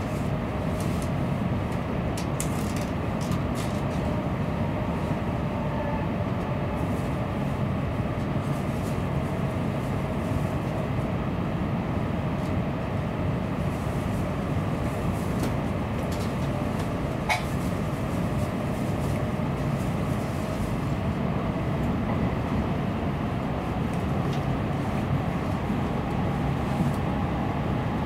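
Steady running noise of a Tokaido Shinkansen train at speed, heard inside the passenger cabin: an even low rumble and hum with a faint hiss above it. A single brief click about 17 seconds in.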